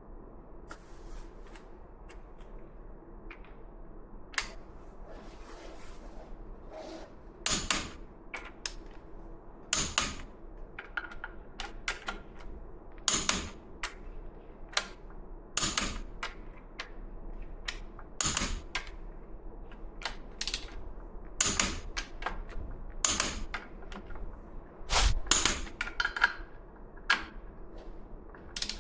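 Hand tools working on metal parts: sharp metallic clicks and taps, starting about four seconds in. A louder strike comes every two to three seconds, some ringing briefly.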